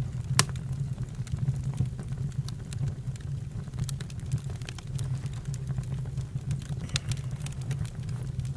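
Campfire burning: a steady low rumble with irregular crackles and pops, a sharp pop about half a second in.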